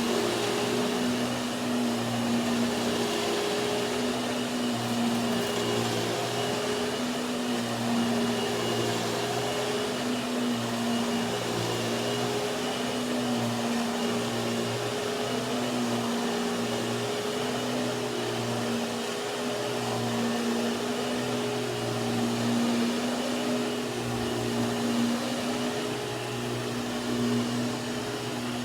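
Hoover WindTunnel 2 upright vacuum cleaner running steadily, a constant motor hum with a faint high whine.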